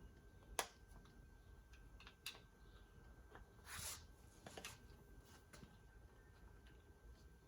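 Faint scattered clicks and light knocks, the sharpest about half a second in and another about two seconds in, with a short scrape near the middle.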